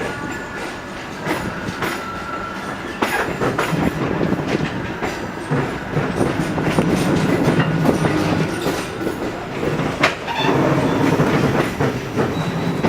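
Train running on the rails, with a steady rumble and scattered sharp clacks of the wheels over the track. A thin squeal of the wheels is heard in the first two seconds or so.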